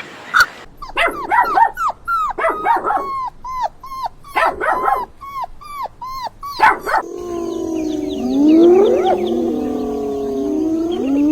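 Several canines yipping in quick, short downward-sliding calls, then howling together in overlapping rising howls about seven seconds in.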